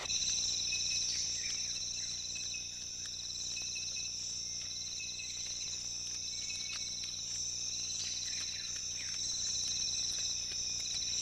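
Insect chorus: a steady high trill with a lower pulsing chirp that comes in repeated runs of about a second, over a faint low hum.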